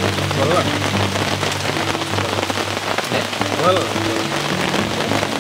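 Steady rain falling, an even hiss of drops, with a low steady hum underneath and two brief gliding sounds, about half a second in and near four seconds in.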